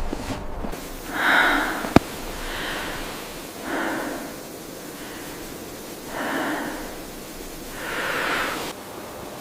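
Heavy breathing, about five drawn-out breaths spaced a second or two apart, over a steady hiss, with one sharp click about two seconds in.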